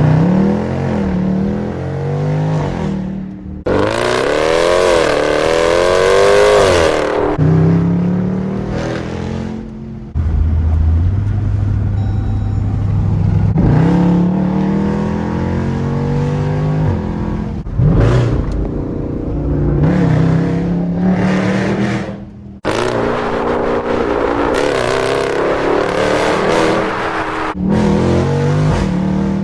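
SRT car's engine pulling hard through the gears: its note climbs in pitch again and again, dropping back at each upshift, with a stretch of steady lower drone in between.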